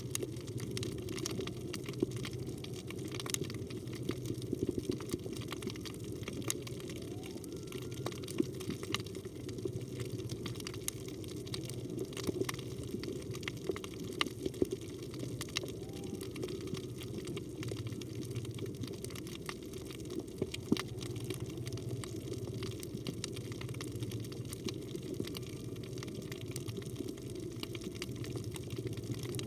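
Underwater reef ambience: a steady low rush of water with scattered sharp crackling clicks throughout.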